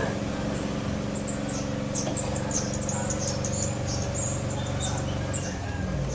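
Rapid, high, thin chirps of small wild songbirds calling over one another, over a steady low hum.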